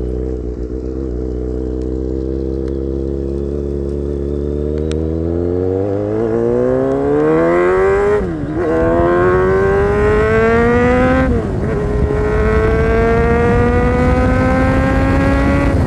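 Kawasaki Z800's inline-four engine through an SC Project aftermarket exhaust, accelerating hard under way. The revs climb steadily, drop at a gear change about eight seconds in, climb again, drop at a second shift about three seconds later, then climb more slowly until the throttle closes near the end.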